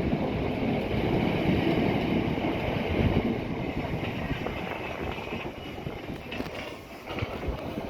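Electric train moving on the track through the station, a rumble of wheels on rails that slowly fades as it draws away.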